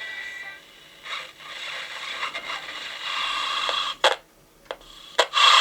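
Built-in AM radio of an old camping lantern, powered from a bench supply, giving bursts of static and hiss as it is tuned, with a few sharp clicks and a loud burst of static at the end.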